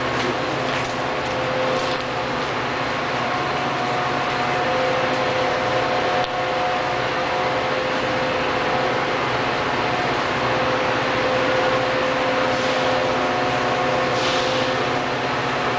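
Metra bilevel commuter train standing at the platform, its onboard machinery giving a steady mechanical hum with a few held tones.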